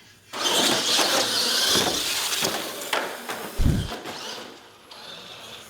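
Radio-controlled scale monster trucks launching and racing down a drag strip, motors whining over a loud rush of noise for about four seconds before fading away. A short low thump comes about three and a half seconds in.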